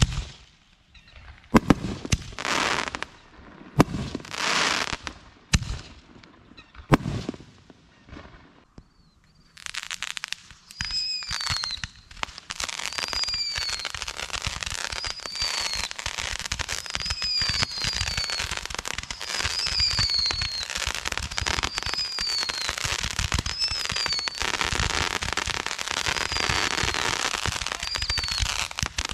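Fireworks going off: a few separate bangs, each followed by a hissing burst, then about ten seconds in a continuous dense barrage of rapid crackling pops with short falling whistles recurring about every second.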